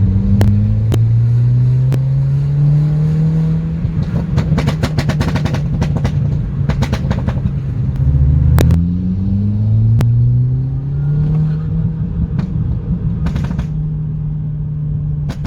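Remapped Mk5 Golf GTI's 2.0 turbo four-cylinder accelerating, rising in pitch, dropping at a gear change about eight and a half seconds in, then pulling up again. Sharp crackles and pops from the exhaust come in bursts, one at the gear change, from the pops-and-bangs code in the engine map.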